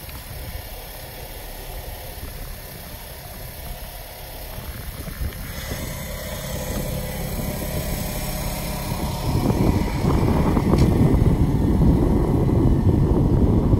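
A 1971 Fiat 500L's 479cc air-cooled twin-cylinder engine idling steadily. It gets louder about two-thirds of the way through.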